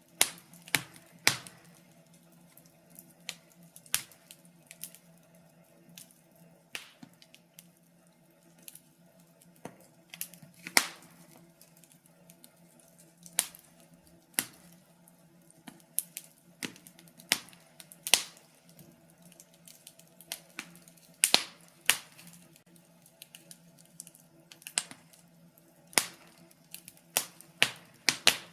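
Wood fire crackling: irregular sharp pops and snaps at uneven intervals over a faint steady low hum.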